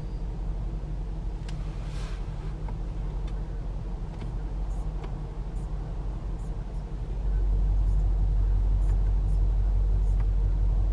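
Supercharged 5.0-litre V8 of a Range Rover Sport SVR idling with a steady low hum. About seven seconds in, the deep rumble steps up and grows louder, then holds steady.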